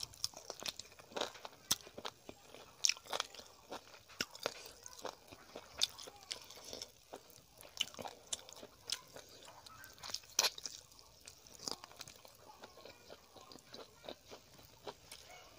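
Close-miked chewing of chicken curry and rice: wet mouth smacks and many irregular sharp clicks.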